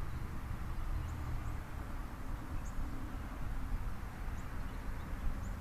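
Outdoor ambience: a steady low rumble with a faint hum, and a few faint, short, high chirps scattered through it.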